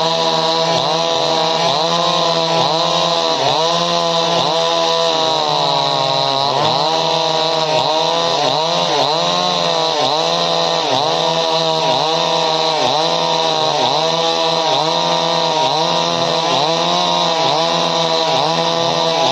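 Two-stroke chainsaw running at high revs, its pitch dipping and recovering in a steady rhythm about one and a half times a second.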